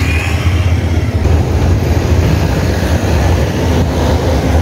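Steady low rumble of riding noise on a cyclist's camera microphone: wind buffeting and road noise, with city traffic around it. There is a slight break near the end.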